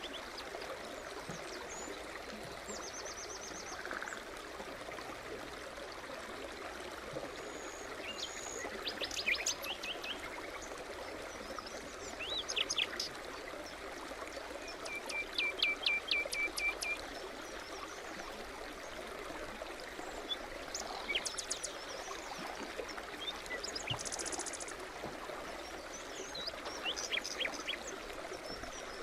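A forest stream running steadily over stones, with small birds singing over it in short chirping and trilling phrases, the busiest of them a rapid run of notes in the middle.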